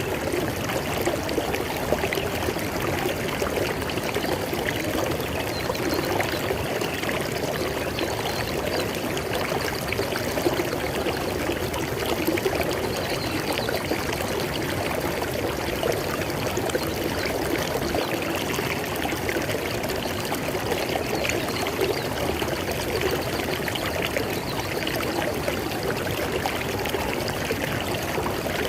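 River water flowing steadily over rocks, a continuous rushing and splashing with small gurgles.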